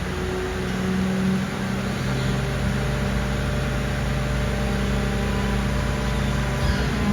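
Diesel engine of a Mercedes-Benz Arocs garbage truck running steadily, its hum settling to a constant pitch about a second in.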